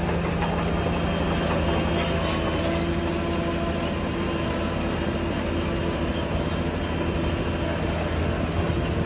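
Shantui DH17C3 crawler bulldozer's diesel engine running steadily at working speed, a constant drone with several low held tones over a mechanical rumble.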